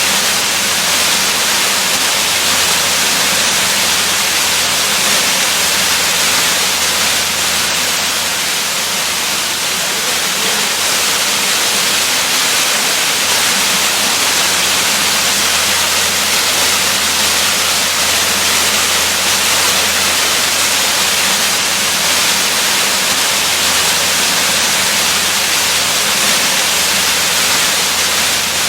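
Waterfall: steady, even rushing of falling water.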